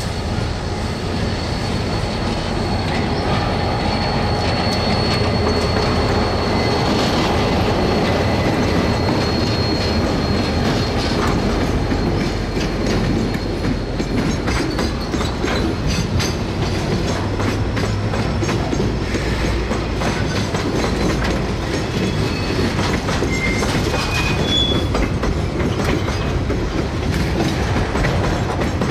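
A KiwiRail freight train rolling past: its two diesel-electric locomotives (DFT and DCP class) go by first, then a long string of flat, container and curtain-sider wagons. The wheels click over the rail joints throughout, with a thin flange squeal for several seconds early on and a few short squeaks near the end.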